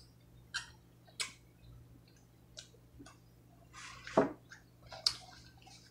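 Close-up eating sounds of a person chewing cheesy chicken: scattered short, wet mouth clicks and lip smacks over a faint steady hum, the loudest smack about four seconds in.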